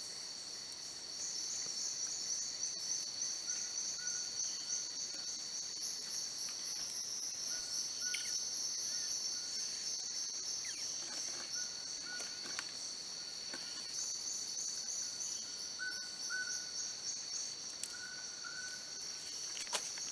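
Forest insect chorus: a steady high trill with a pulsing buzz over it, and faint short chirps repeating throughout.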